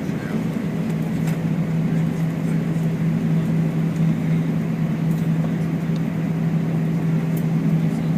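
Steady cabin drone inside an Airbus A319 after landing: a constant low hum over an even rushing hiss, with a few faint ticks.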